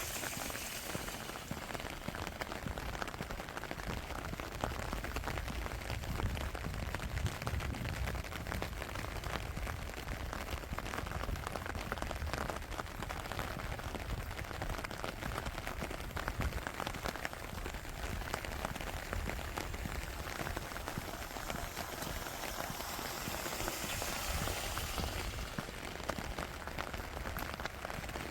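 Steady rain falling, with many small drops hitting close by.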